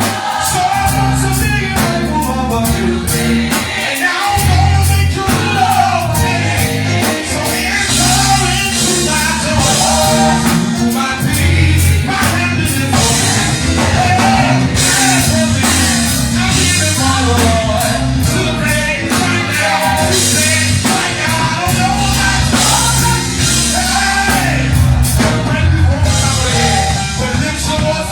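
A gospel choir singing with a live band: bass, drums with cymbals, and keyboard.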